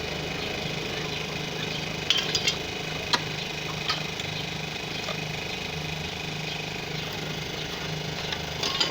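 A steady engine-like hum with a slightly pulsing low tone, joined by a few sharp clicks and knocks about two to four seconds in and again near the end.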